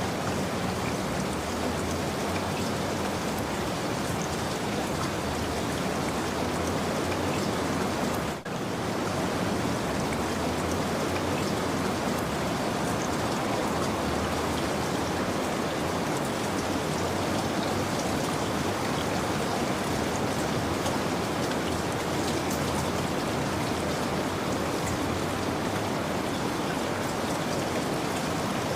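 Steady, heavy rain falling, an even dense hiss of drops, with a momentary dropout about eight seconds in.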